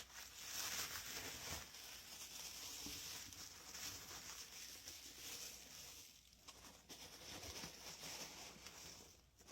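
Packing material rustling and crinkling as it is handled and pulled away from the eggs, with a few faint taps. It goes quieter around the six-second mark and again near the end.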